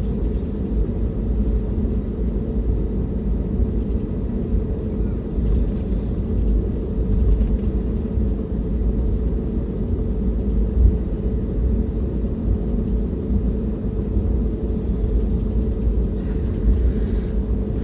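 Steady cabin rumble of an Airbus A321neo on the ground before takeoff, its engines idling, with a steady low hum running through it.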